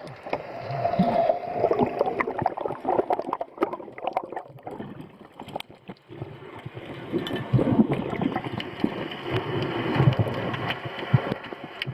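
Water gurgling and sloshing around the diver's camera near the surface, with irregular knocks and splashes.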